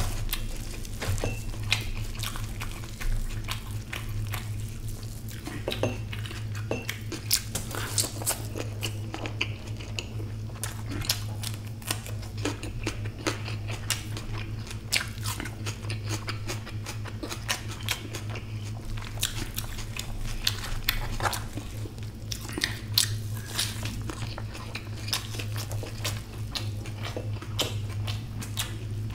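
Close-miked chewing and biting of egg omelette, with many short wet mouth clicks and smacks over a steady low hum.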